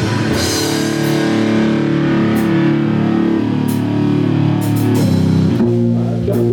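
Live heavy metal band playing an instrumental passage: electric guitar chords held over drum kit and cymbal hits, the chord changing about five and a half seconds in.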